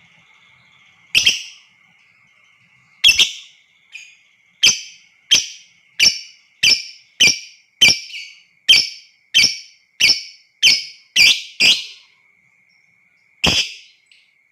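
Lovebird giving sharp, shrill calls: a couple of single calls, then a run of about a dozen evenly spaced calls at roughly one and a half a second, and one more near the end.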